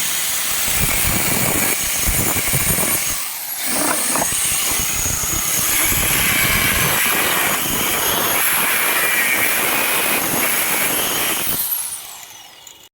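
A power tool running loudly and steadily, with a hissing edge and a faint steady whine, dying away near the end.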